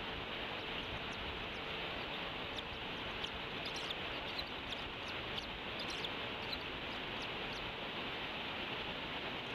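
Steady hiss with a scatter of about a dozen short, high bird chirps in the middle few seconds.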